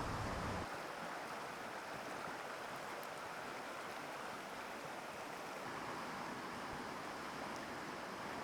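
Mountain stream water rushing steadily over rocks, an even hiss-like flow; a low rumble underneath drops away under a second in.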